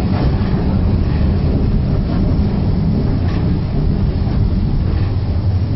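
Inside a coach of a steam-hauled heritage train running slowly along a station platform: a steady low rumble with faint clicks about once a second.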